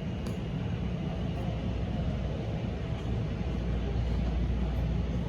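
Electric CTA 'L' rapid-transit train running on the track: a steady low rumble that grows slightly louder.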